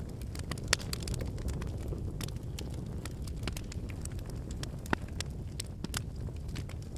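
Wood campfire burning: a steady low rumble of flames with frequent sharp crackles and pops from the firewood, one loud pop under a second in.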